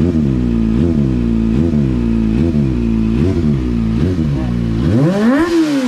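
Kawasaki ZX-25R's 249 cc inline-four revved through an aftermarket exhaust: short throttle blips about once every 0.8 seconds over the idle, then one longer, higher rev that rises and falls near the end.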